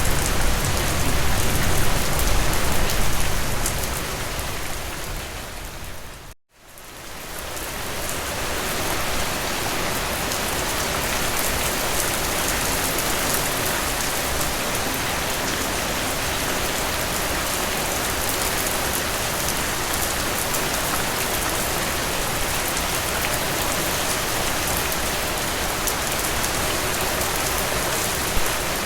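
Heavy rain falling in a steady, even hiss of drops. About six seconds in it fades out to a moment of silence, then fades back in.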